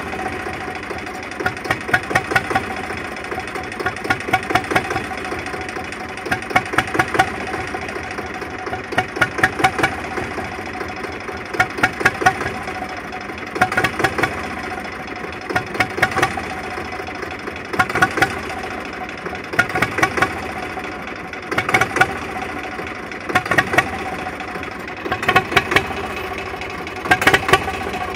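Zebra 3520's engine idling roughly: a steady run broken about every two seconds by a quick cluster of sharp knocks or pops.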